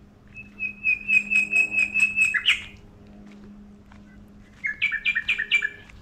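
A songbird calling: a quick string of clear, evenly repeated notes, about five a second, for a little over two seconds, ending on a louder note, then a shorter run of about five notes near the end.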